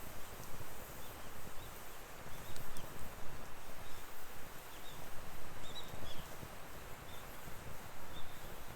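Firewood burning in a fire pit: a steady soft hiss and rumble with a few faint crackles and pops.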